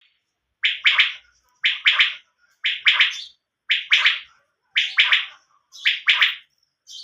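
Quail (bater) calling: a call of two quick, harsh notes, repeated about once a second.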